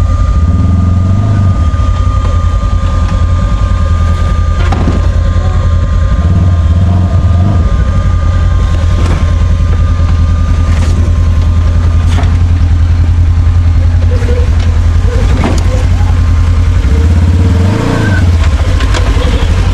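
Side-by-side UTV engine running steadily as the machine drives a rough trail, with several sharp knocks and clunks throughout.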